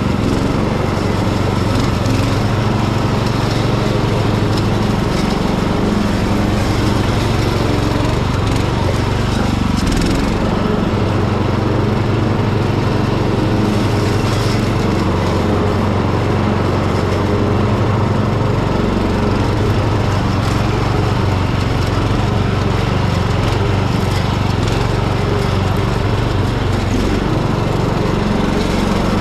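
Hecht ride-on garden tractor's engine running steadily with its mower deck cutting tall, thick grass. The engine note dips briefly a few times as the load changes.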